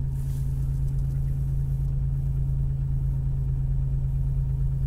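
A 1997 Chevrolet Monte Carlo's 3100 V6 idling steadily, heard from inside the cabin, as a low even drone with one strong steady hum. The engine is still cold, started about a minute earlier at −12 °C without a block heater.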